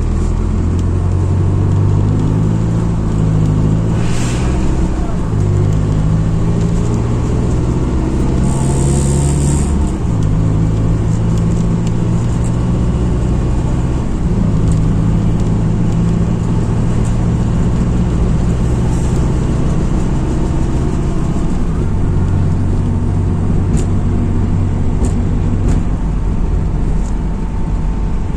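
Interior sound of a MAZ-206 city bus driving: the diesel engine's low note holds steady, then steps to a new pitch several times as the gears change. A brief hiss about nine seconds in.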